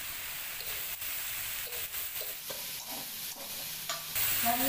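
Long beans, eggplant and tempeh sizzling steadily in an aluminium wok, with a few light clicks and scrapes of a metal spatula in the second half.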